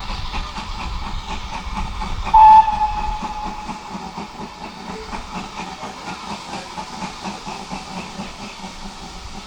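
Steam locomotive, the GWR Manor class 4-6-0 No. 7802 Bradley Manor, working past: a single short, loud whistle toot about two seconds in, over steady rhythmic exhaust beats and steam hiss that slowly fade away.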